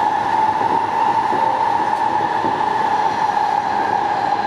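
E233 series electric train running, heard from on board: a steady rolling rumble with an even hum.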